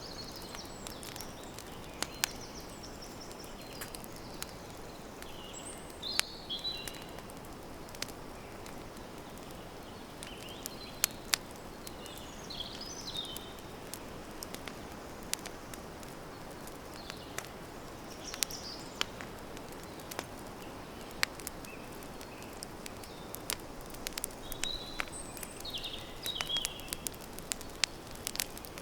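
Campfire crackling, with scattered sharp pops over a steady low hiss. Birds give short chirping calls every few seconds.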